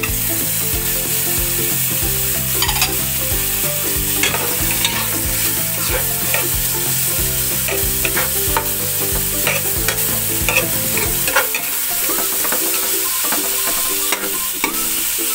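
Sliced tomatoes, onions and garlic sizzling in hot oil in a nonstick pan, with a metal spatula stirring and scraping them in short clicks: the sauté (gisa) stage of the dish.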